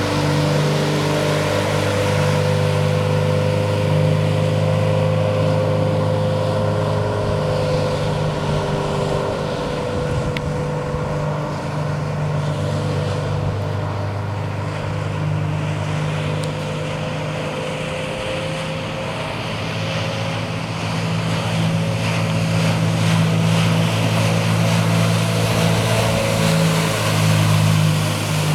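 Gray Marine 4-75 four-cylinder inboard engine of a 1956 Lyman Islander running at a steady cruising speed, over the rush of water along the hull and wind. It eases off slightly in the middle and picks up again later.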